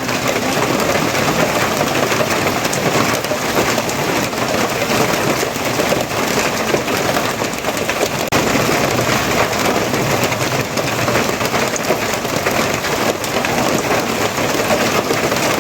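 Steady rain falling on a surface: a dense, even hiss with no let-up.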